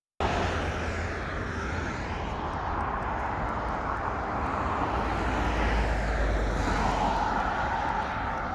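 Steady outdoor rumble with a broad hiss, its low rumble swelling a little in the middle.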